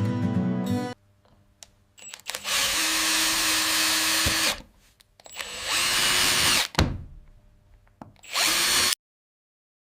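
Handheld electric drill running in three bursts: about two seconds, then about one second, then a short half-second one near the end.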